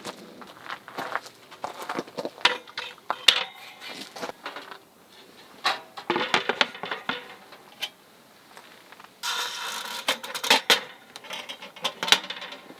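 Irregular clinks and knocks of small hard objects being handled, with a short rustling, scraping stretch about nine seconds in.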